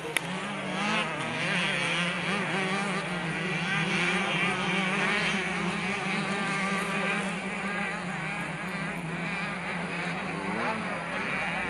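Several motocross bikes' engines running and revving together, their pitches rising and falling over a steady low drone.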